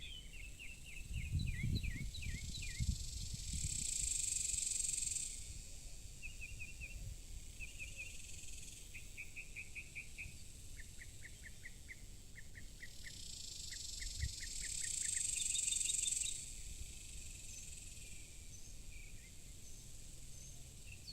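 Small birds chirping and singing rapid trills of repeated notes, while a high insect buzz swells up and cuts off twice. A brief low rumble comes a second or two in.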